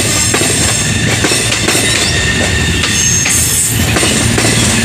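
Passenger train coaches rolling past close by. The wheels knock over rail joints at irregular intervals, under a thin high wheel squeal and a steady rumble.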